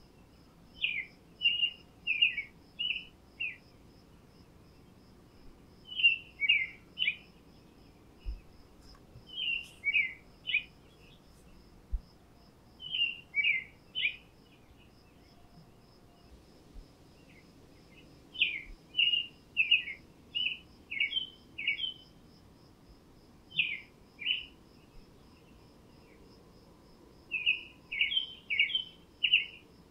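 A songbird singing short phrases of three to six quick, falling notes, a phrase every few seconds. Behind it runs a faint, steady insect ticking.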